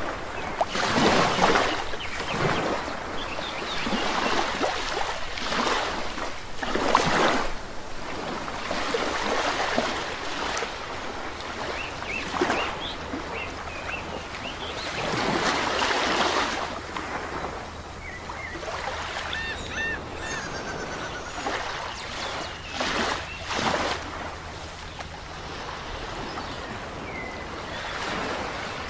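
Sea waves washing onto a shore, rising and falling in surges every few seconds, with short bird chirps over them, a quick series of chirps about two-thirds of the way through.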